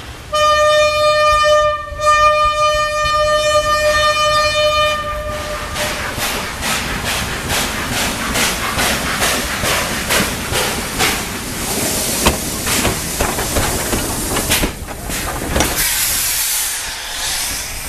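A Chinese SY-class 2-8-2 steam locomotive blows its steam whistle for about five seconds, with a short break about two seconds in. It then works away with steady exhaust chuffs at about two to three beats a second, and a burst of steam hiss comes near the end.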